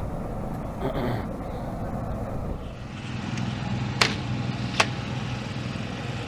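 An engine idling steadily, with two sharp clicks a little under a second apart about two-thirds of the way in.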